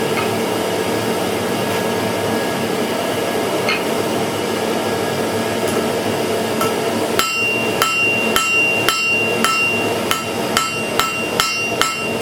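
A steady rushing noise, then about seven seconds in a hammer begins striking steel on an anvil: about a dozen ringing blows, roughly two a second, as the metal is forged.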